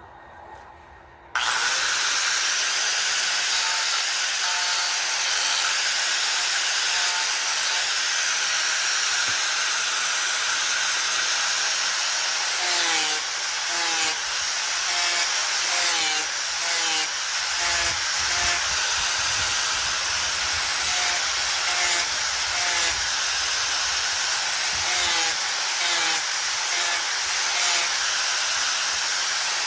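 Electric power tool switched on about a second and a half in, running steadily as it grinds and carves a wooden bowl. Its high whine dips briefly again and again as the tool bites into the wood.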